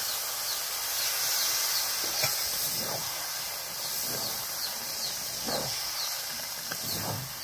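Chicken curry sizzling and hissing steadily in a metal wok while a metal spatula stirs it, with a few short scraping strokes.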